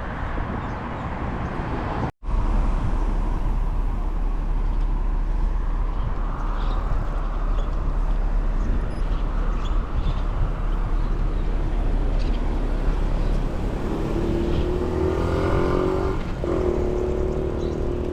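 Road and wind noise heard from a moving bicycle, with traffic going past. The sound drops out briefly about two seconds in, and near the end a passing vehicle's engine adds a steady drone.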